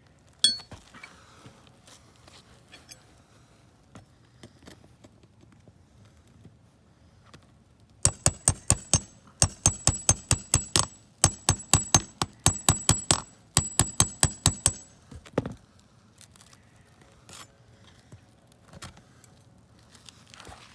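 Hammer driving roofing nails: quick runs of sharp metallic blows, several to a nail, for about seven seconds starting some eight seconds in. Quieter scraping and handling of shingles come before and after.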